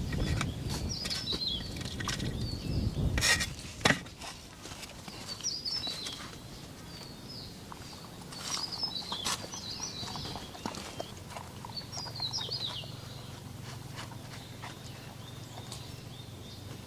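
Small birds chirping in short, repeated phrases every few seconds over a low outdoor rumble that fades after about four seconds. Two sharp knocks stand out, a little over three seconds in and again about a second later.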